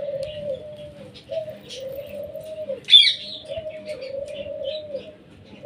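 Pet bird cooing in long, low, repeated calls, about four in a row, with faint high chirps between them and one sharp squawk about three seconds in.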